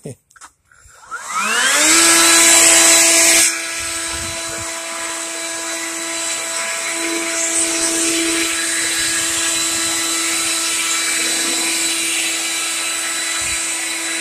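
Leaf blower starting up: its motor whine rises quickly in pitch and settles into a steady high whine, with a loud rush of air. The air rush drops sharply about three and a half seconds in while the whine holds steady.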